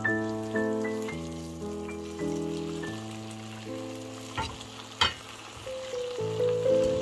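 Vegetables sizzling as they fry in a thickening sauce in a wok, under gentle instrumental background music with clear, decaying notes. Two sharp knocks about four and a half and five seconds in, the second the louder, as the fried pork pieces are set into the wok.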